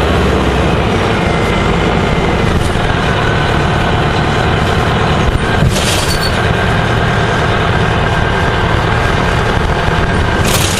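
Gillig Phantom transit bus running, with steady engine and road noise and a faint steady whine. A short hiss comes about six seconds in and another near the end.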